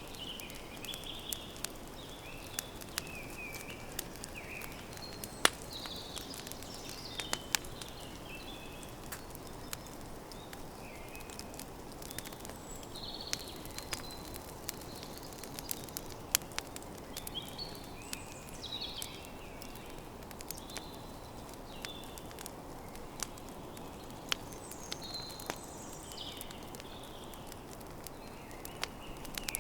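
Campfire crackling, with irregular sharp pops over a steady hiss, while small birds chirp in short repeated phrases in the surrounding forest.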